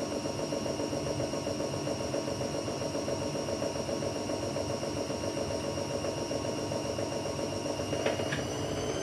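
AEG Lavamat Turbo washer-dryer running its wash cycle: a steady motor hum and whine with a fast, fine rhythm from the turning drum. Near the end there are a couple of clicks and the motor's whine starts to rise in pitch.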